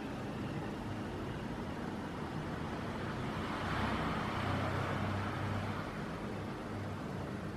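Steady road-traffic rumble that swells for a couple of seconds as a vehicle passes, about four seconds in.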